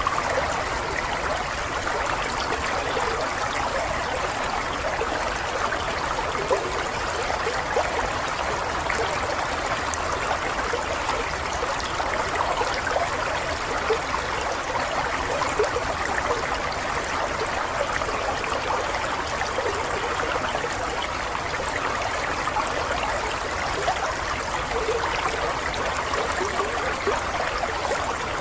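Running water in a small stream, a steady babbling and trickling over stones that holds an even level throughout.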